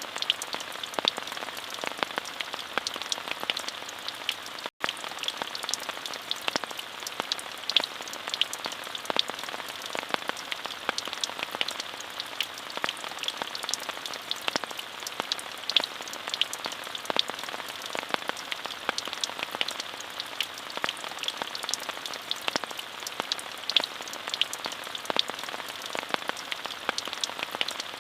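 Steady rain: an even hiss of rainfall with many sharp, separate drop hits. The sound cuts out for an instant about five seconds in.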